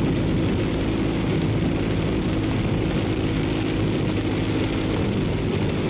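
Steady car cabin noise while driving in heavy rain: an even engine hum with tyre and rain noise.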